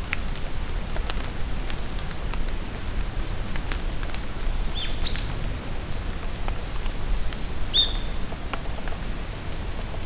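Steady rain in a forest, with single drops ticking close by, and birds calling through it: a quick rising chirp about five seconds in, short calls then and near eight seconds, and a high trill around seven seconds.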